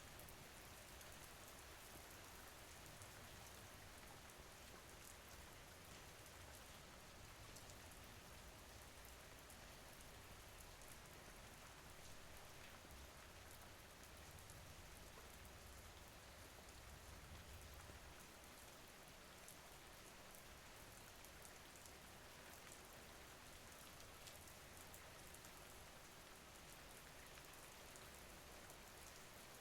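Faint, steady rain with a fine patter of drops.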